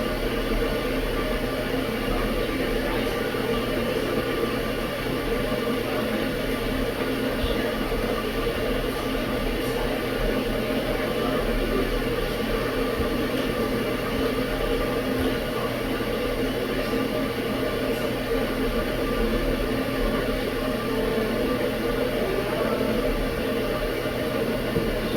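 Kettle at the boil: a steady rushing hiss with a low hum underneath, unchanging throughout.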